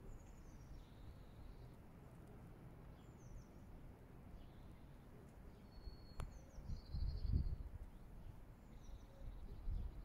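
Faint outdoor ambience with small birds calling now and then: short high chirps and twitters scattered through. A single sharp click about six seconds in, then a brief low rumble around seven seconds and again near the end.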